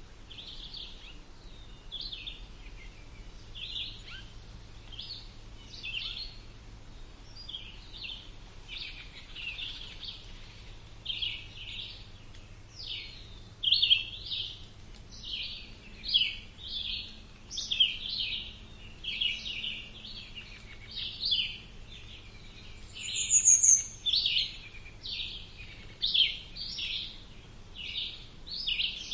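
Birds chirping: short high chirps repeating every half-second or so, becoming louder and busier about halfway through, with one higher, brighter note a little before the end. A faint low background hum runs underneath.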